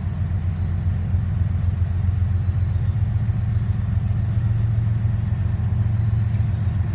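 Diesel locomotive engines running with a steady low rumble as a freight train rolls in.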